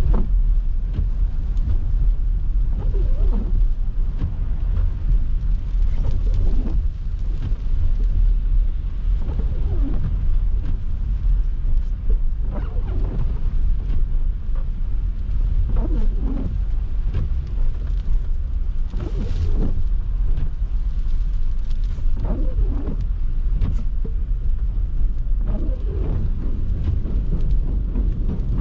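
Car driving on snowy streets: a steady, heavy low rumble of engine and tyres, with brief wavering higher-pitched sounds every few seconds.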